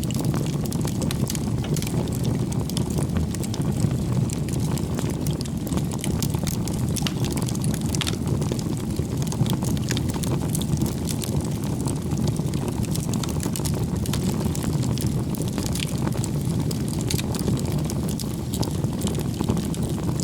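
Firewood burning in a bonfire: a steady low rumble of flames with frequent small crackles and pops throughout.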